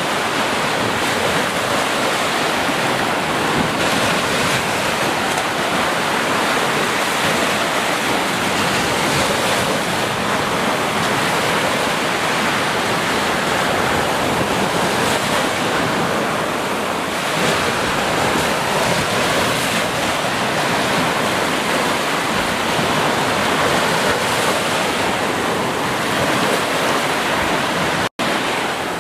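Ocean surf washing onto a beach, a steady dense rush that swells and eases gently, with some wind. The sound cuts out for an instant near the end.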